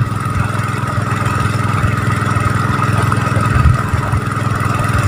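Small engine of an irrigation water pump running steadily, drawing water to flood a rice field.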